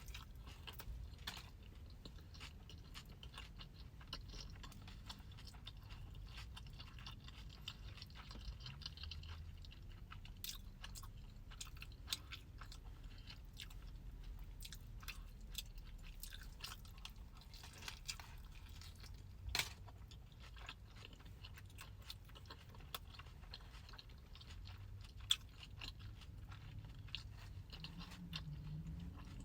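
Faint chewing and biting of a steak and cheese sandwich, with many small mouth clicks and two sharper clicks partway through, over a steady low rumble.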